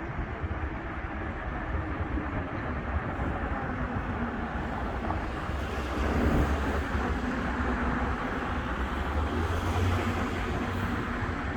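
Steady rumble of passing road traffic, swelling a little about six seconds in.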